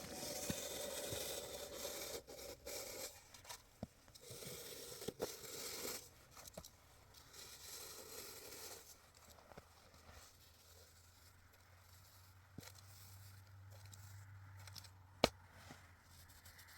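Scraping and rustling in three bursts of a few seconds each, with one sharp knock near the end.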